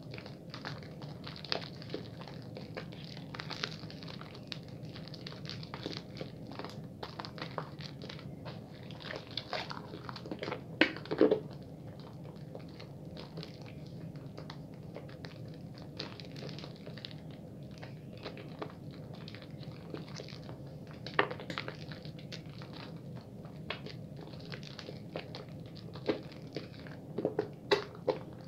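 Bar soap being lathered in wet hands: continuous crackling, squishing foam with small wet clicks, and a few louder squelches about eleven seconds in, around twenty-one seconds and near the end.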